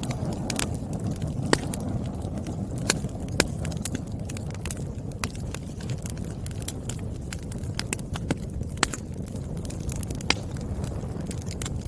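Wood fire burning with a steady low rumble and scattered sharp crackles and pops from the firewood, a few of them louder snaps.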